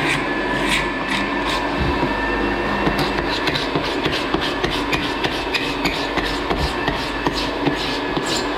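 Short, sharp scraping strokes of a hand floor scraper on oak floorboards, coming thick and fast from about three seconds in, over a steady machine drone with a high whine.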